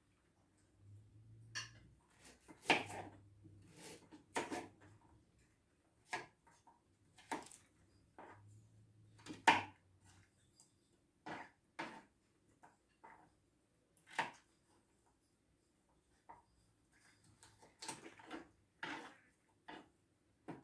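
A kitchen knife cutting carrots on a cutting board: irregular sharp knocks of the blade striking the board, about one a second with short pauses.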